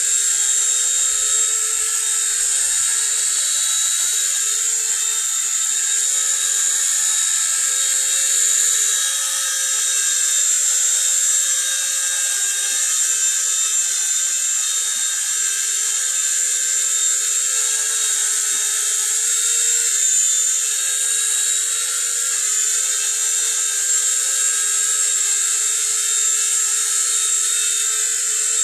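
Nine Eagles Bravo SX radio-controlled mini helicopter's small electric motors and rotor blades running steadily, a high whirring whine whose pitch wavers slightly as the throttle shifts.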